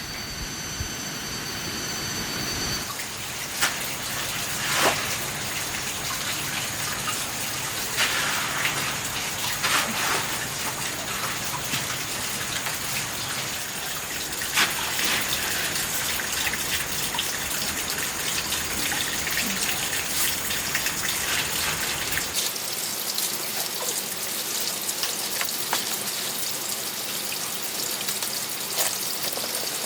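Steady rushing, splashing water, like rain or running water, with scattered louder drips or clicks.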